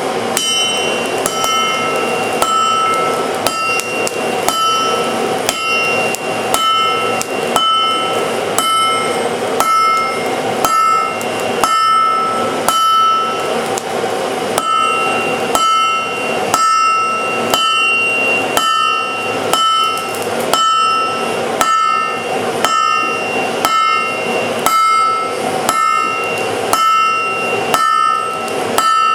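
Hand hammer striking steel on an anvil in a steady rhythm, about two blows a second, each blow with a ringing metallic tone. A steady rushing noise runs underneath.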